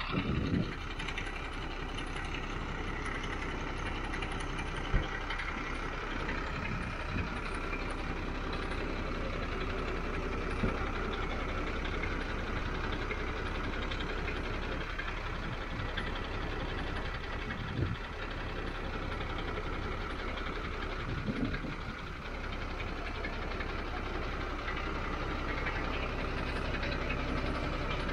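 Large diesel truck engine idling steadily, with a few sharp clicks over the top.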